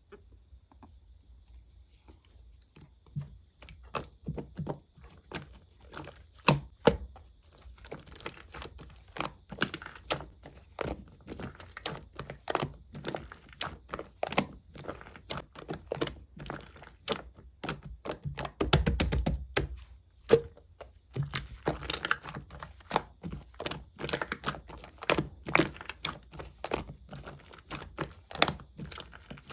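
Two-layer slime being mixed by hand, squished and folded, giving a dense run of small sticky clicks and pops. The clicks are sparse at first and grow thick after a few seconds, with one longer, louder squelch about two-thirds of the way through.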